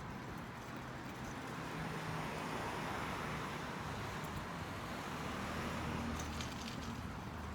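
Street traffic: a car passes on the road, its engine and tyre noise swelling to a peak about six seconds in, then easing off.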